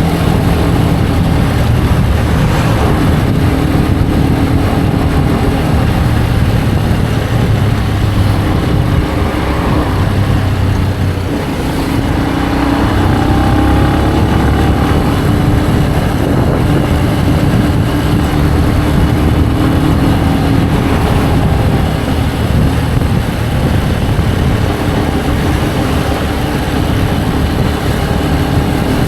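Benelli BN125's single-cylinder engine running under way, over a steady rush of wind noise; the engine note dips briefly about eleven seconds in, then climbs again.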